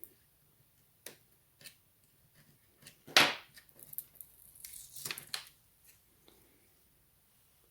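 Clicks and scrapes of small tools and parts being worked on an opened laptop while its BIOS (CMOS) battery and mounting plate are removed. A single sharp crackling scrape just after three seconds is the loudest; rustling and scraping with a few clicks follows for about two seconds.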